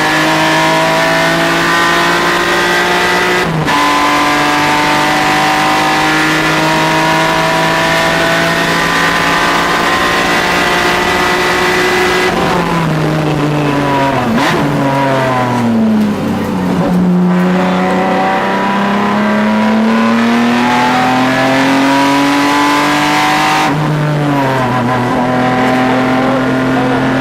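A car's engine running hard at track speed. There is a quick gear change about three and a half seconds in, then high revs held. Around halfway the revs drop in steps as the car brakes and downshifts for a corner, then climb steadily as it accelerates out, with another shift near the end.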